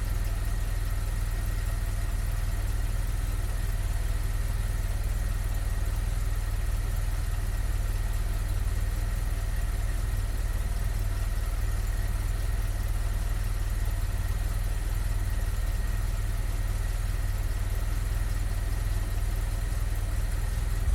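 Vauxhall Carlton car engine idling steadily with a low, even rumble.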